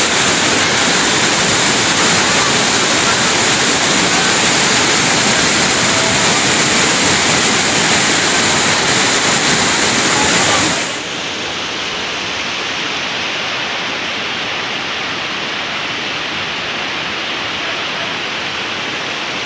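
Tirathgarh Waterfall rushing, a loud steady roar of falling water. About eleven seconds in, it becomes slightly quieter and duller.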